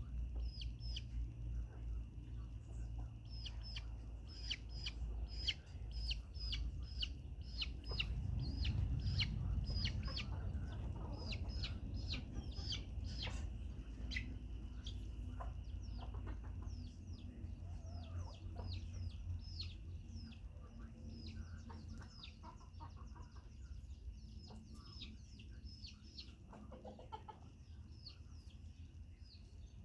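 Chickens calling: a rapid string of short, high-pitched, downward-sliding calls several times a second, thinning out about halfway through, over a steady low rumble.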